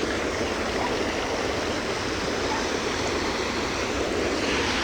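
Storm runoff water rushing steadily, a continuous wash of flowing water.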